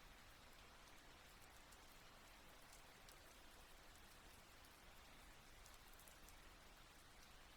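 Soft, steady rain falling, with the faint patter of individual drops.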